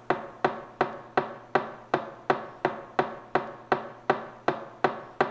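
Steady, evenly paced knocking, about three knocks a second, each with a short ringing tone.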